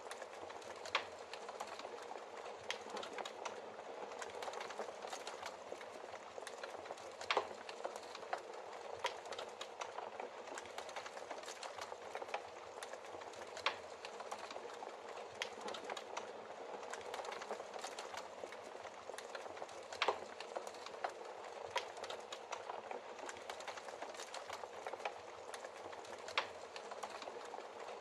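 Logs burning in a fireplace: a steady crackling hiss full of small ticks, with about five louder sharp pops spread a few seconds apart.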